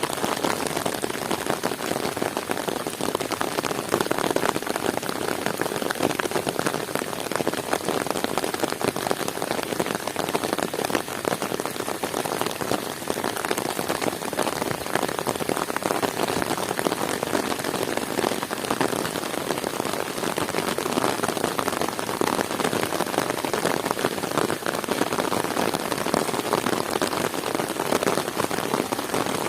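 Heavy rain falling steadily, a dense continuous patter of drops on surfaces.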